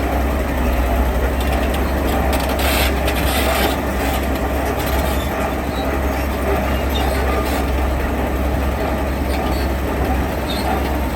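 Heavy diesel earthmoving machinery running steadily with a low rumble, overlaid with clanking and the scraping of stone and metal. A louder burst of rattling and scraping comes about two and a half seconds in and lasts about a second.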